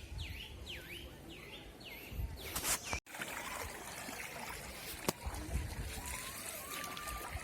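A bird calling: a run of high chirps that dip and rise again, about two a second, stopping abruptly about three seconds in. After that, a steady outdoor background of water trickling with low wind rumble on the microphone.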